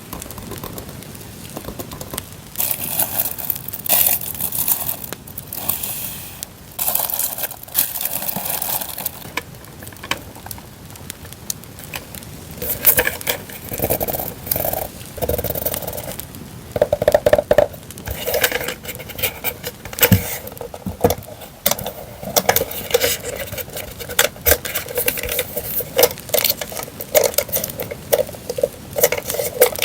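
Paper and plastic packaging rustling, crinkling and tearing in irregular bursts as journal-decorating papers and stickers are handled and unpacked, over a steady crackling campfire sound bed.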